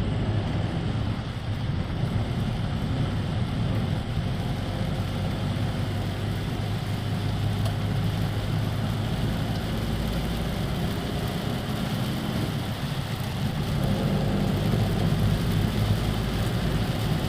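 Motor vehicle driving in the rain: a steady low engine and road hum under an even hiss of rain and wet tyres, growing a little louder near the end.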